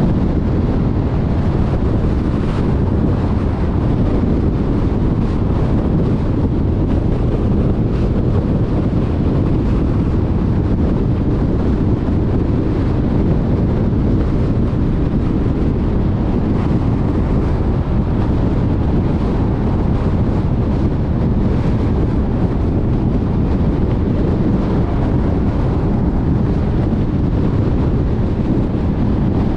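A car driving at steady freeway speed: continuous low tyre and road noise mixed with wind noise, unchanging throughout.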